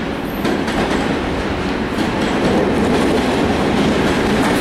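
BR 232 diesel locomotive hauling a freight train of open wagons past at close range. Its engine grows louder as it draws level, with the wheels clacking over the rail joints.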